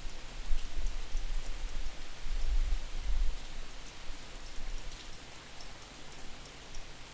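Rain falling, a steady hiss with scattered drop ticks, over a gusting low rumble of wind distorting on the microphone that eases off in the second half.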